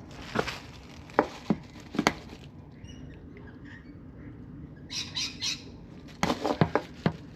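Sharp clicks and knocks from handling a handheld digital moisture meter and pressing its pins into the caravan's ceiling timber: scattered single clicks, three short scuffing sounds about five seconds in, then a quick run of clicks near the end.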